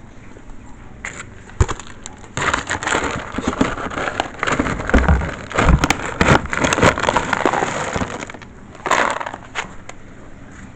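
Cat food being handled, a loud crackling, crunching rattle with rustling. It runs in a dense stretch of quick clicks from about two seconds in to about eight seconds, with a shorter burst near nine seconds.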